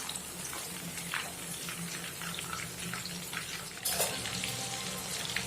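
Cornflour-coated chicken pieces deep-frying in hot oil: a steady sizzle with small crackles, and a brief knock about four seconds in.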